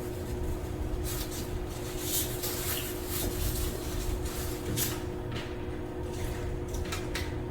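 Scattered rustling, scraping and light knocking handling noises as a strip of foam seal is fitted along the top of a window air conditioner. A steady low hum runs underneath.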